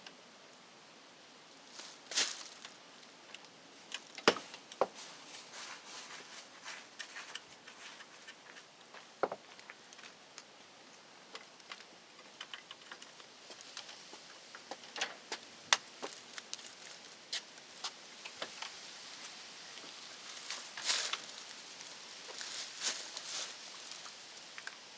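Scattered light clicks, taps and rustling of hands-on work with tools and small parts, with a few sharper knocks.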